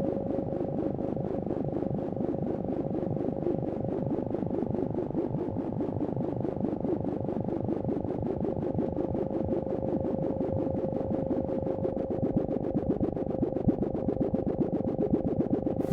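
Computer-synthesized sonification of Hurricane Harvey's storm data made in SuperCollider: a steady held electronic tone over a fast, grainy, fluttering texture that grows louder and spikier in the last few seconds.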